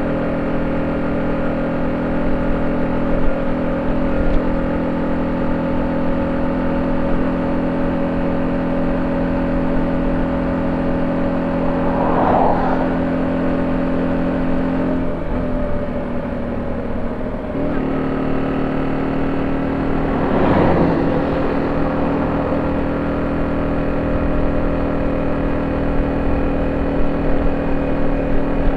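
Honda C70's single-cylinder four-stroke engine running steadily through a 'pisang' (banana-shaped) exhaust. Its note shifts slightly in pitch about halfway through, and there are two brief swelling sounds, one a little before and one a little after that change.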